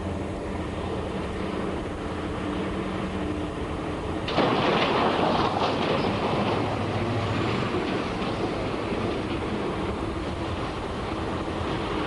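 Large mining haul truck running with a steady low engine drone. About four seconds in, a much louder, harsher rumble and clatter suddenly sets in and carries on.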